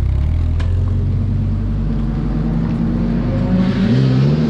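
Mazda MX-5's four-cylinder engine running steadily, its pitch rising and then falling again near the end as the revs change.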